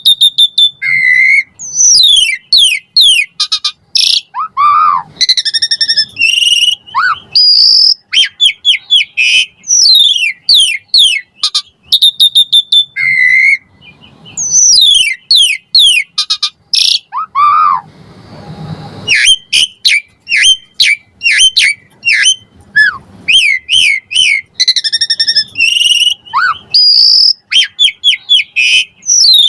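Asian pied starling singing a long, varied song of rapid falling whistles, chirps and lower whistled notes in quick phrases with short breaks.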